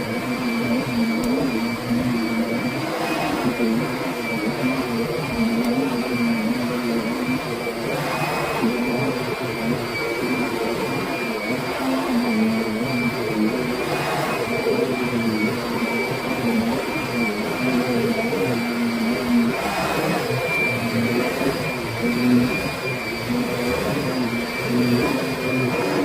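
Kirby Sentria upright vacuum cleaner running steadily, its motor giving a constant whine over a dense hum, with brief swells every few seconds as it is worked across the floor.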